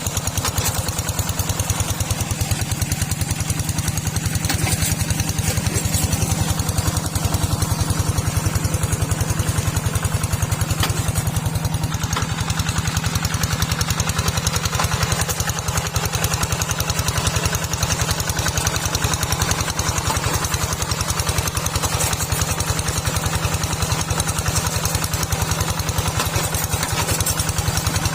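Small tractor's engine running steadily with a rapid, even beat.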